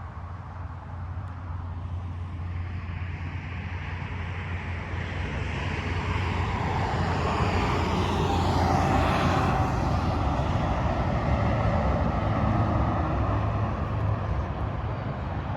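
Heavy truck passing on a freeway. The engine and tyre noise build up, pass about halfway through with a falling pitch, then begin to trail off.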